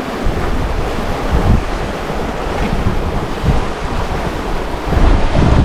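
Wind buffeting the microphone over the rush of water and waves along a sailboat's hull, with a stronger gust near the end.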